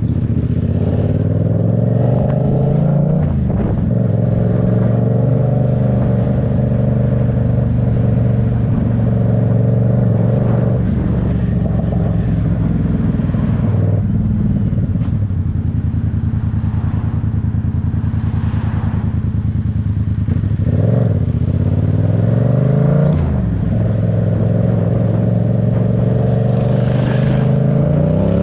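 Motorcycle engine accelerating hard through the gears: its pitch climbs, then drops sharply at each upshift, four times over.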